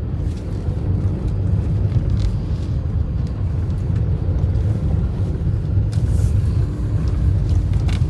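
Steady low rumble of tyre, road and engine noise inside a Maruti Suzuki Ertiga's cabin as it drives over a badly broken road, with a few faint knocks from the rough surface.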